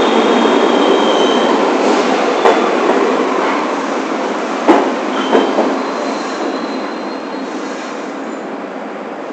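New York City subway train running on the rails, its wheels squealing thinly at times, with a few sharp clunks over rail joints. The rumble fades steadily, as if the train is slowing.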